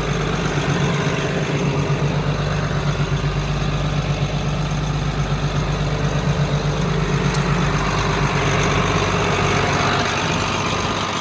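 John Deere 8450 tractor's six-cylinder turbodiesel idling steadily, heard from inside the cab.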